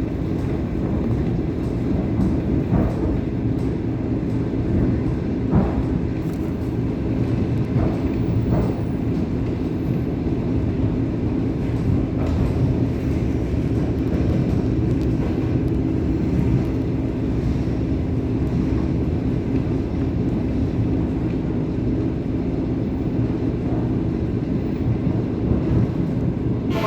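ET2M electric multiple unit running along the line, heard from on board: a steady rumble of wheels and running gear, with a few faint knocks.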